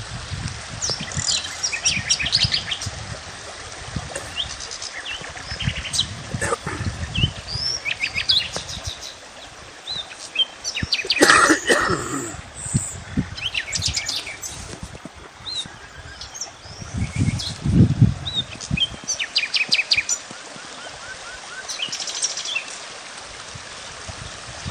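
Small songbirds chirping and twittering outdoors in short, rapid runs of high notes. A louder call comes about halfway through, and there are a few lower sounds now and then.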